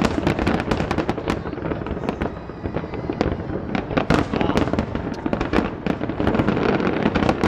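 Fireworks finale: a dense, unbroken barrage of aerial shell bursts, many bangs a second over a steady rumble.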